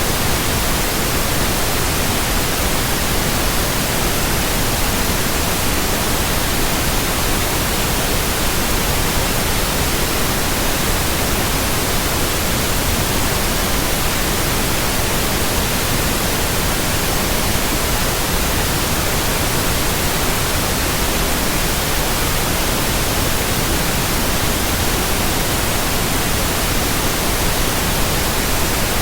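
Steady white noise: a constant, even hiss across all pitches that does not change.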